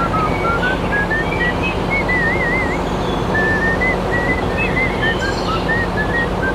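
A whistled melody of short stepped notes with a wavering held note about two seconds in, over a steady dense rumble with a low hum underneath.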